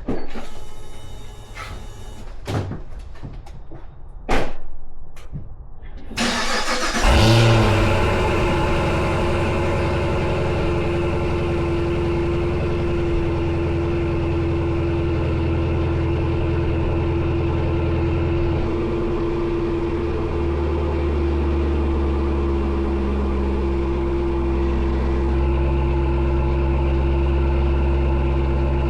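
Cadillac Blackwing cold start: a few clicks and knocks, then about six seconds in the engine cranks and catches with a loud flare of revs through the exhaust. It then settles into a steady high cold idle.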